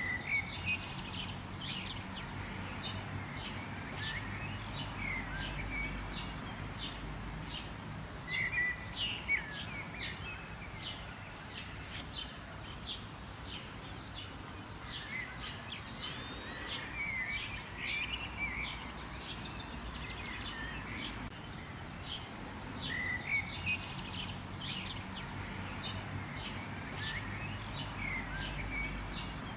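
Several birds chirping and calling, with many short high chirps in quick succession and a few sweeping calls, over a steady low background rumble.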